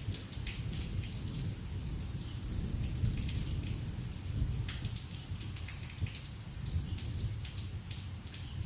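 Heavy rain in a thunderstorm, with many sharp drop hits close by over a steady low rumble.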